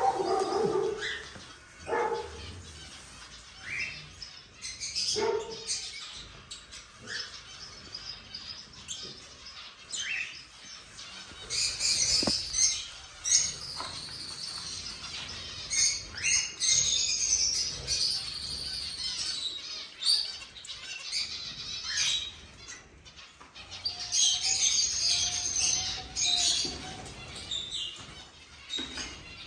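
Cockatiels chirping and calling in short, repeated bursts, with flapping wings among them.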